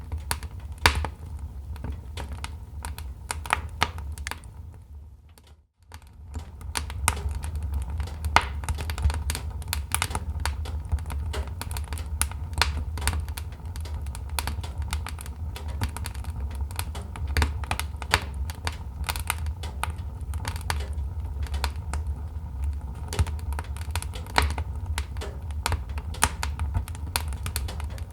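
Wood fire crackling, with dense irregular pops and snaps over a steady low rumble. The sound fades out briefly and comes back in about five to six seconds in.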